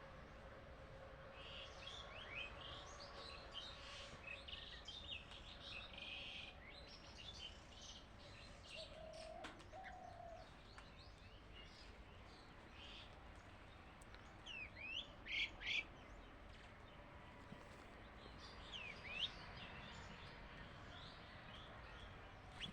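Birds chirping and calling, faint, with a few louder sweeping calls past the middle and again later on.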